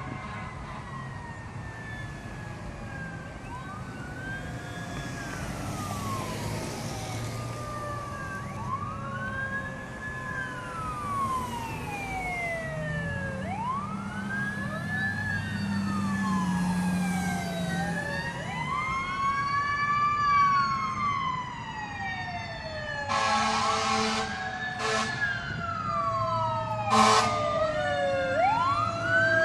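Fire engine siren wailing, its pitch sweeping up and down over and over and growing louder as the engine approaches. Three short horn blasts sound near the end.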